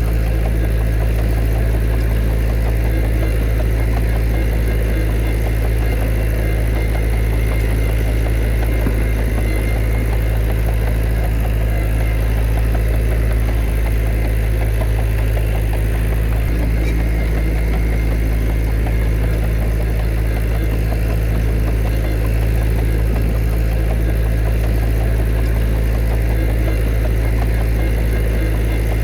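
Diesel engine of a bulldozer or dump truck running at a steady speed, a constant low hum with no revving or changes.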